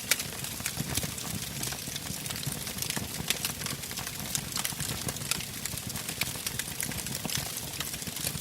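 Wood bonfire burning: irregular sharp crackles and pops from the logs over a steady low rush of flame.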